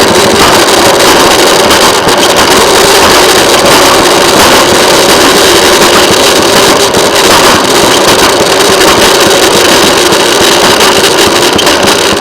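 Railway motorcar (track speeder) running along the rails, its engine and running gear making a loud, steady noise.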